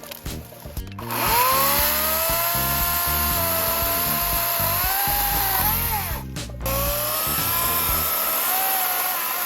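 Nareon 42V brushless cordless chainsaw running and cutting wood. The motor's whine spins up about a second in, sags a little in pitch under load, cuts out briefly past the middle, then picks up again.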